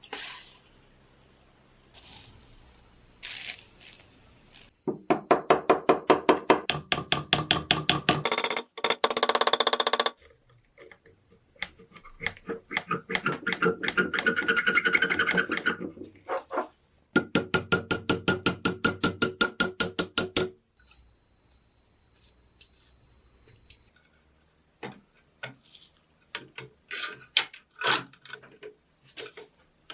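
Hand work on a rusty metal lighter: bouts of rapid, evenly repeated scraping strokes with pauses between them, and scattered clicks and knocks near the end.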